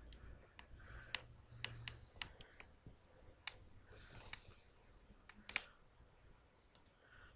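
Sleeping chihuahua making irregular sharp clicks with its mouth and teeth, about nine in a few seconds, the loudest about five and a half seconds in, with soft wheezy breaths between them.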